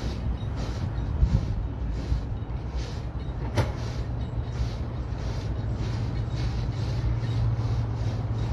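Large diesel engine running steadily, with a single sharp clank about three and a half seconds in.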